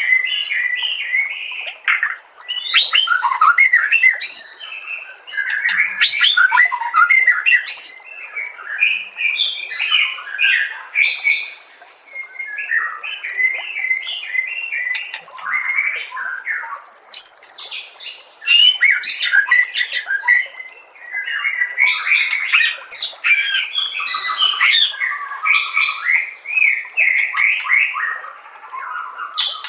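White-rumped shama (murai batu) singing a long, varied song of whistles and fast trills, in bursts of phrases with short pauses between them.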